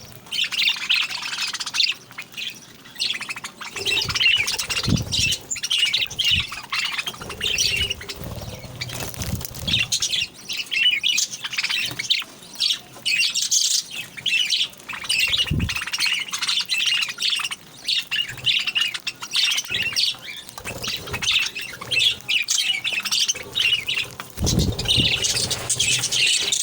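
Pet birds chirping and squawking busily and without pause, several calls overlapping. A few brief low thumps come in between.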